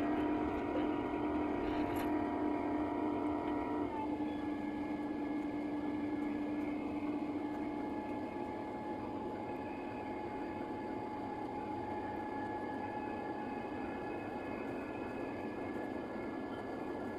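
Airbus A350-1000's Rolls-Royce Trent XWB engines running at high thrust during takeoff: a steady rumble with several steady tones over it, which drop slightly in pitch about four seconds in.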